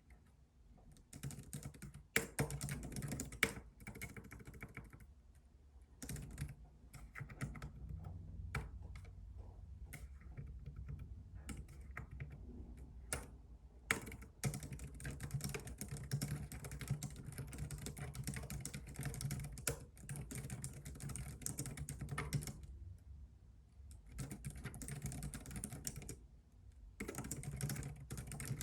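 Computer keyboard typing in quick, continuous runs of keystrokes, with a few short pauses between runs.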